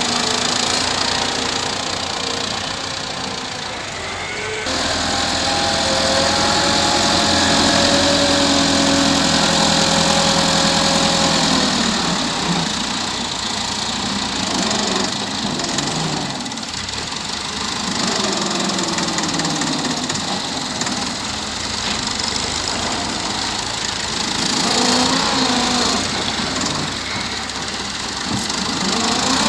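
Massey Ferguson 385 tractor's diesel engine running under load while working a front blade, its pitch rising and falling as the load changes. The sound changes abruptly about five seconds in.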